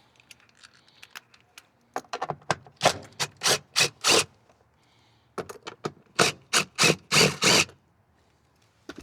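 Hand ratchet wrench clicking in short rasping strokes, loosening bolts, in two runs of several strokes each with a pause between.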